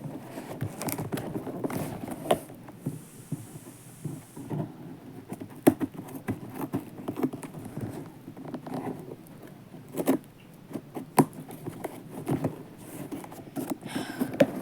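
A book parcel's packaging being worked open by hand: irregular scratching, crinkling and tearing, with sharp clicks and taps.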